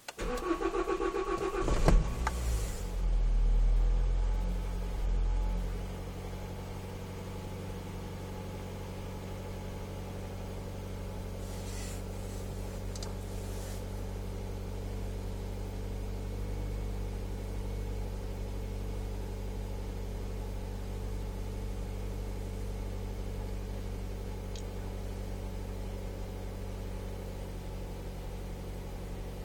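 Toyota Corolla E11's 1.4 VVT-i four-cylinder petrol engine cold-starting at −6 °C: the starter cranks for about two seconds, the engine catches and flares up to a fast cold idle, then settles by about six seconds into a steady idle.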